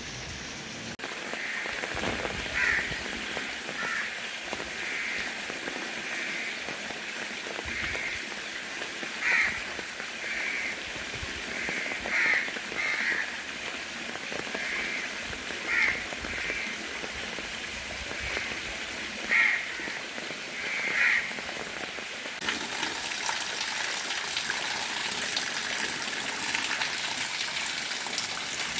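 Steady rain falling, with a bird giving a string of short, repeated calls through most of it. The rain noise grows fuller and heavier about three-quarters of the way in.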